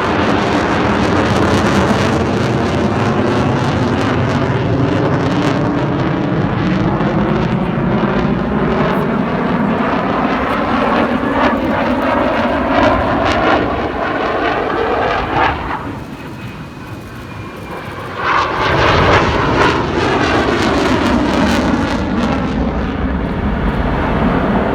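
Display aircraft flying past overhead, its engine noise loud and sweeping in pitch as it goes by. The sound fades for about two seconds near two-thirds of the way through, then comes back loud as another pass arrives.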